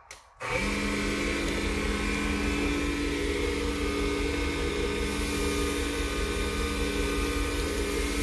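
Wood lathe switched on about half a second in, then running steadily with a low hum and a steady whine as it spins a padauk pen blank for friction polishing with abrasive paste.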